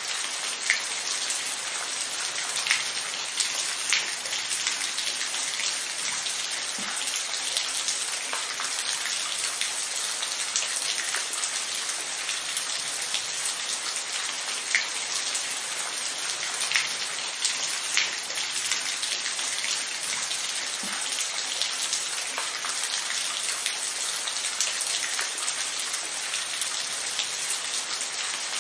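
Steady rain falling on a surface, a constant hiss with scattered sharper drop ticks standing out every second or two.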